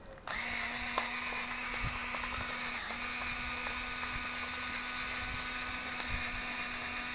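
A small electric motor starts sharply and runs at a steady, even pitch, with a brief dip in speed about three seconds in.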